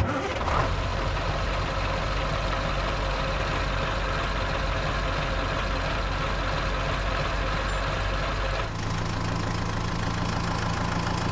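Engine idling steadily. About nine seconds in it cuts abruptly to another idling engine with a steadier low hum.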